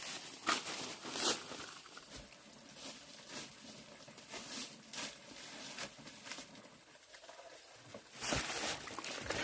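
Scattered light rustles and small knocks at uneven intervals, with a louder cluster near the end.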